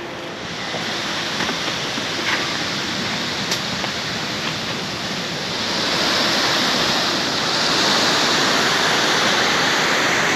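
Steady rush of flowing river water, growing louder about halfway through and again a little later.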